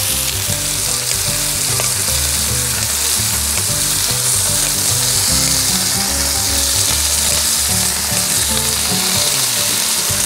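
Pork belly and kimchi sizzling steadily on a hot stone griddle.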